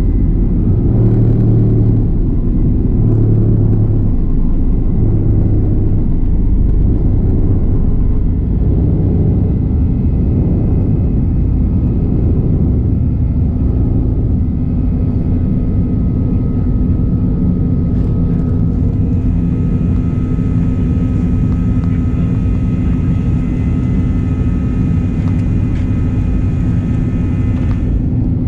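Inside the cabin of a Boeing 737-900ER airliner: the steady rumble of its CFM56 jet engines and airflow. A fainter, steady high whine joins about two-thirds of the way in and stops just before the end.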